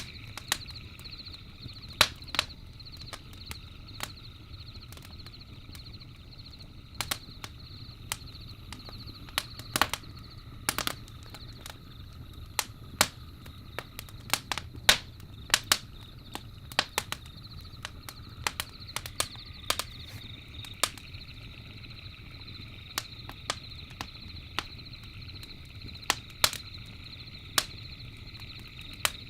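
Campfire crackling with irregular sharp pops, several a second, over a steady high chirring of night insects.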